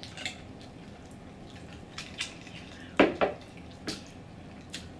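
Close-up eating sounds of someone chewing fried food: a handful of short wet mouth clicks and smacks, loudest about three seconds in.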